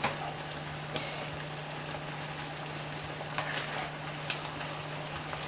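Steady sizzling hiss of chicken and vegetables stir-frying in a hot pan on the burner, with a few light clicks of metal tongs against the pan.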